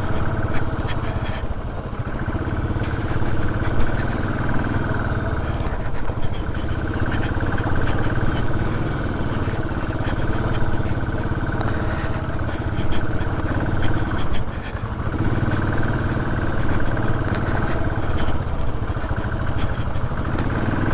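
Benelli TRK 502's 500 cc parallel-twin engine running under way on a rough off-road track, its note steady apart from a few brief dips as the throttle eases.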